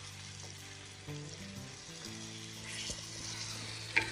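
Chicken pieces frying and sizzling in a clay handi pot over a wood fire as they are stirred with a wooden spoon. There is a single sharp knock near the end.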